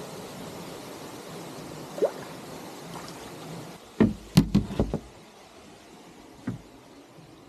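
A quick run of about five knocks against a kayak, one single knock before it and one after, over a steady wash of water noise that fades after the knocks.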